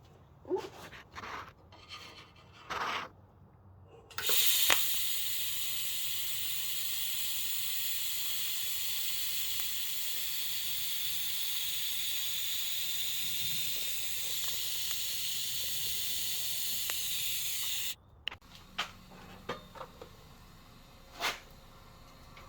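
TIG welder's arc running as a steady hiss for about fourteen seconds, starting about four seconds in and cutting off abruptly as the bead ends. A few light knocks and clicks come before it and after it.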